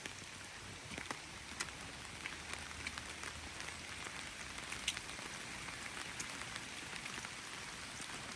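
Steady rain falling, an even hiss dotted with scattered sharp taps of single drops striking close by.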